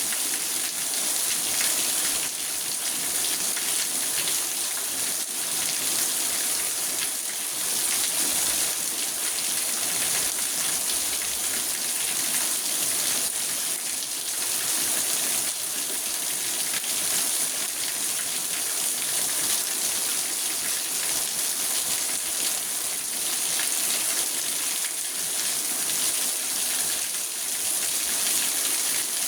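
Steady rain falling on a car, heard from inside the cabin as a dense hiss of drops drumming on the roof and glass.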